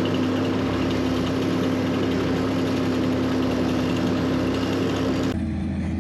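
Engine of heavy earthmoving equipment running steadily with a constant hum. About five seconds in, the sound cuts abruptly to a quieter engine.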